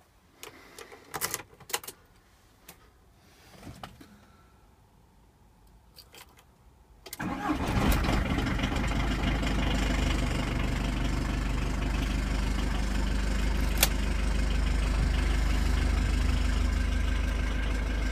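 A few sharp clicks and knocks in a quiet car cabin, then about seven seconds in the car's engine starts and settles into a steady idle, heard from inside the cabin.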